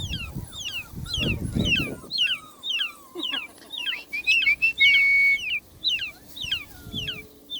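A bird chirping over and over: a fast run of short, high, downward-sliding chirps, two or three a second, with one longer steady whistled note about five seconds in.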